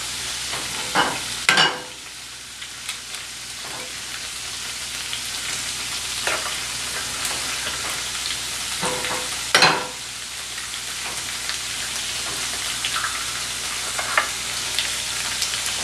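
Cubes of extra-firm tofu frying in coconut oil in a pan, a steady sizzle, with a few sharp knocks of kitchenware, the loudest near two seconds and near ten seconds in.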